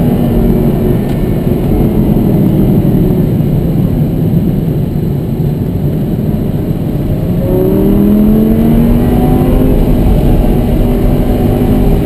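Lamborghini Gallardo's V10 engine pulling at speed, heard from inside the cabin under heavy wind and road noise. A little past halfway the engine note climbs steadily as the car accelerates.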